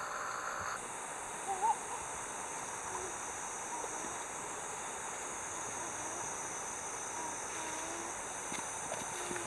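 Steady outdoor hiss with a few faint, short, wavering calls scattered through it, the last one rising near the end.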